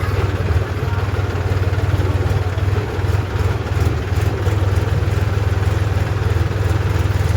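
Tractor engine running steadily at a low idle, a deep, even, rapid chugging.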